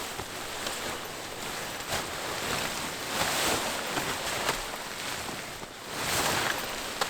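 A rustling, hissing noise that swells twice, with small scattered clicks.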